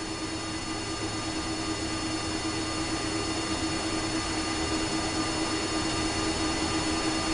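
Steady jet-airliner flight-deck noise with the engines idling: a broad rush with a hum and several steady whining tones, growing slightly louder.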